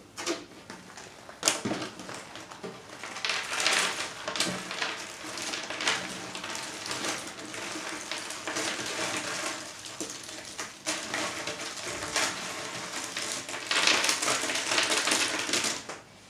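Cardboard jigsaw puzzle pieces being pulled apart and pushed together by hand: a dense clatter of small clicks and rustles. It gets louder around four seconds in and again near the end.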